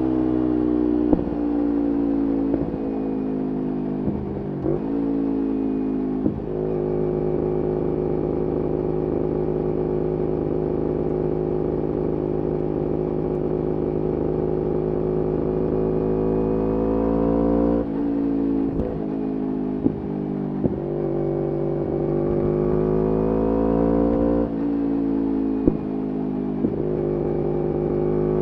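2011 Kawasaki Ninja 250R SE's parallel-twin engine through a full Graves race exhaust, running under way. Its pitch holds steady for a long stretch, drops twice in the second half and climbs again near the end, with short sharp clicks now and then.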